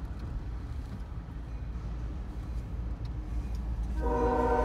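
Low steady rumble, then about four seconds in a diesel freight locomotive's air horn starts sounding a steady blast at the crossing.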